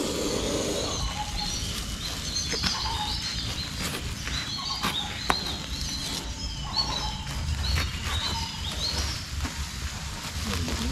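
Small birds chirping, short high calls repeated many times, with a few sharp clicks in between.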